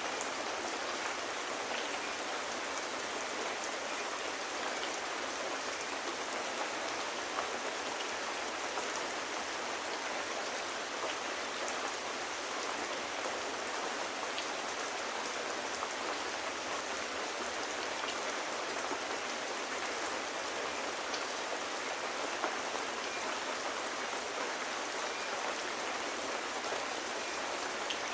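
Steady rain, an even hiss with scattered light ticks of drops striking a surface.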